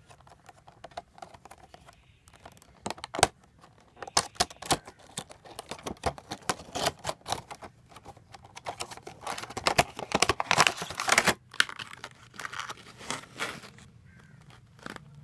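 Headphone retail packaging being opened by hand: irregular rustling, crinkling and tearing with scattered clicks and knocks, busiest and loudest about ten seconds in.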